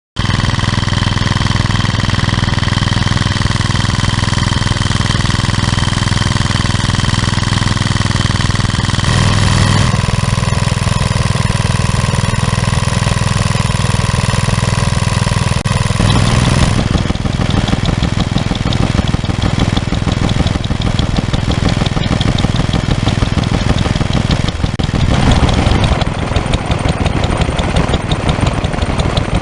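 Vintage stationary engines running steadily, heard one after another. The sound changes abruptly about nine, sixteen and twenty-five seconds in.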